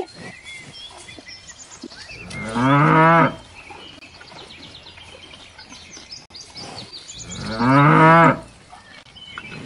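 Cattle mooing: two long, loud moos about five seconds apart.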